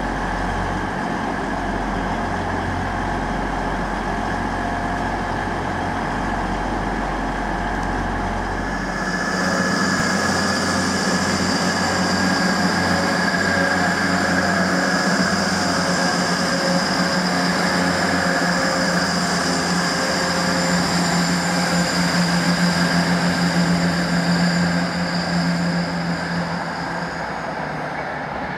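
A train at a railway station: a low steady hum at first, then about nine seconds in a louder running sound with a high steady whine that lasts until near the end.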